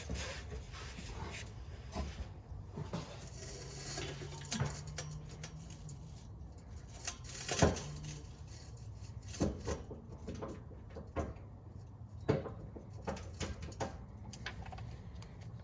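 Scattered metal clinks and knocks, about eight spread irregularly, as a loose aftermarket cat-back exhaust pipe and hand tools are handled under the car.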